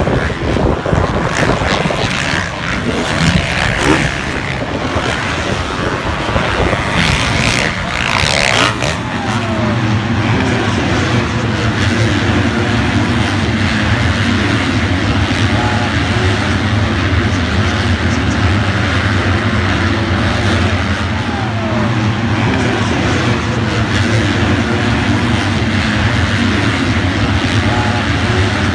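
Loud, continuous engine noise that shifts irregularly at first, then settles into a steady low drone from about ten seconds in.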